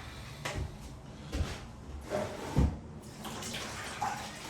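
Water sloshing in a bucket as a sponge is rinsed and squeezed out, with a few soft knocks.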